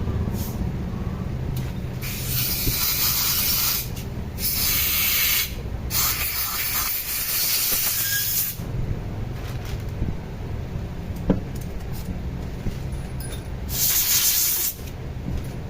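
Four bursts of hissing pressurised spray, one to two seconds each, over a steady low rumble, with a single sharp click near the middle.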